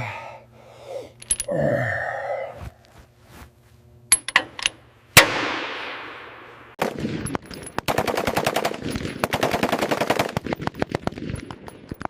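Gunfire: a few sharp single shots, then a loud bang with a long fading echo, followed from about seven seconds in by sustained rapid automatic fire.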